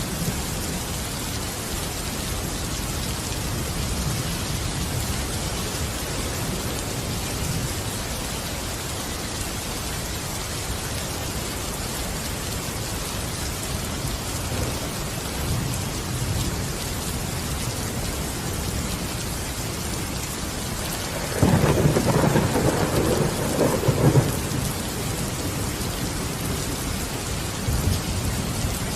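Steady rain falling, with low thunder rumbling underneath; about three-quarters of the way through, a louder roll of thunder swells for a couple of seconds and fades back into the rain.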